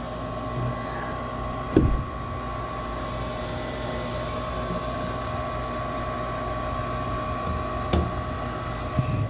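Furnace draft inducer motor running with a steady hum, while the pressure switch gets no pressure and a blocked exhaust is suspected. Sharp knocks about two seconds in and about eight seconds in.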